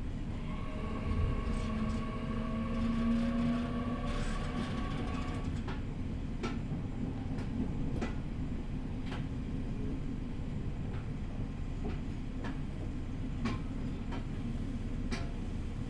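Interior running sound of an E501 series electric train at reduced speed: a steady rumble of wheels on rail, with the traction motors' whining tones for about the first five seconds, then scattered clicks from the track.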